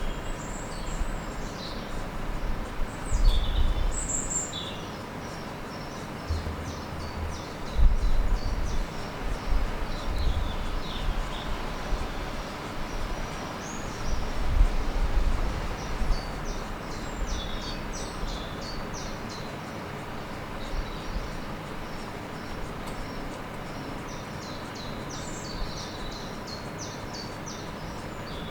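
Small birds chirping and singing in quick runs of short notes, over an irregular low rumble that swells several times and then settles.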